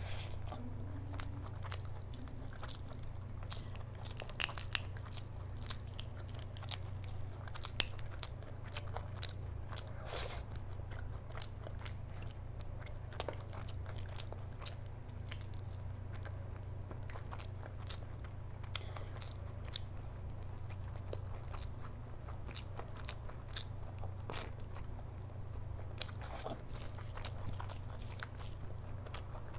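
A person chewing big handfuls of rice and curry, with many short sharp mouth clicks scattered throughout, over a low steady hum.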